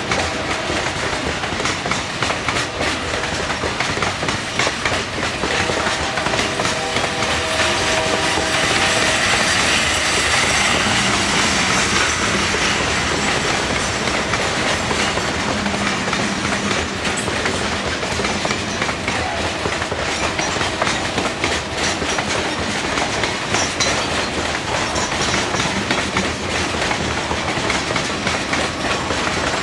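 Freight train's coal cars rolling past, steel wheels clicking steadily over the rail joints, with a faint wheel squeal at times.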